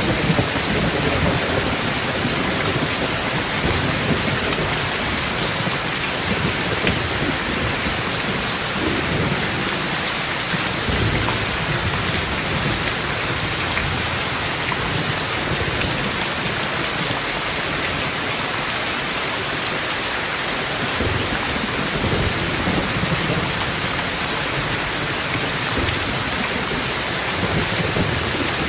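Steady heavy rain falling, with low thunder rumbling on and off underneath.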